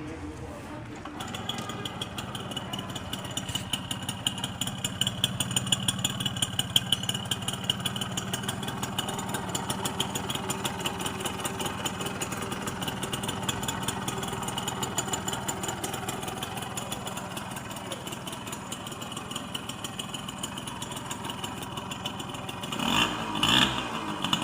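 Yamaha Royale YB100 two-stroke single-cylinder motorcycle engine idling with a fast, even beat, picking up a little in the first few seconds. Near the end there is a brief louder swell that rises and falls in pitch.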